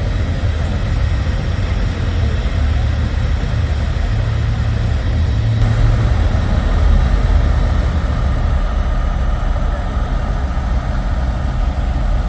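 Heavy diesel engine idling with a steady low rumble, typical of a semi truck running at a show.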